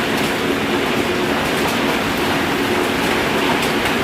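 Heavy downpour of rain and hail driven by strong wind: a steady, dense rushing noise with a few faint ticks.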